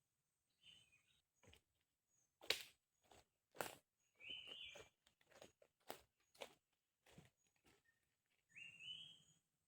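Faint forest ambience: a bird gives a short rising call twice, about four seconds in and near the end, among scattered sharp clicks and knocks.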